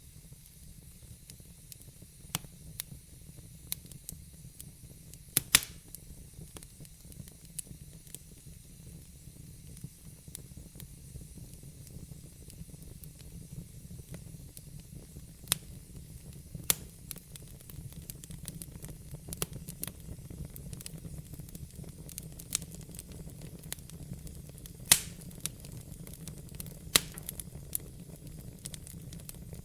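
Fireplace fire crackling, with sharp pops every few seconds, the loudest about five seconds in and twice near the end, over a steady low rumble and hiss.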